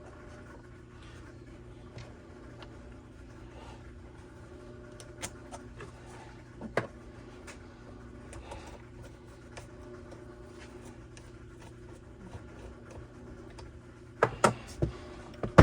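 Light clicks and rubbing of small plastic and metal parts being handled while working on a Homelite string trimmer's fuel system. A few sharper knocks come near the end, over a steady low hum.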